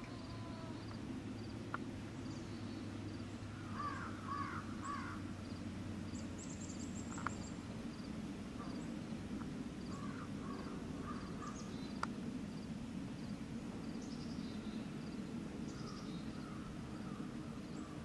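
Birds cawing in short runs of three or four harsh calls, a few times, with small high chirps from other birds, over a steady low background rumble.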